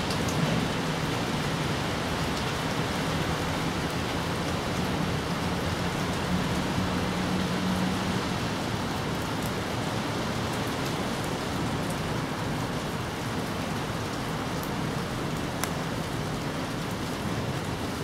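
Steady rain falling on grass and bamboo leaves, with scattered sharper drips. A faint low hum runs underneath for about the first eight seconds.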